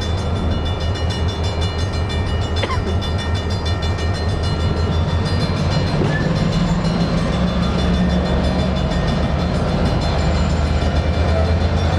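Diesel engines of EMD SW1500 switcher locomotives running close by, a steady low hum that rises and loads up about six seconds in as the switcher works.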